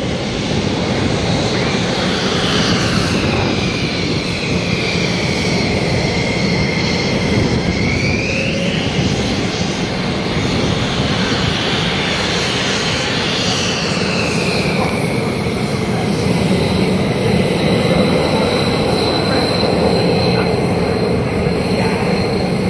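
Single-engine aerobatic plane's engine and propeller running hard, its whining pitch sweeping down and back up several times as it maneuvers, then holding steadier over the last several seconds.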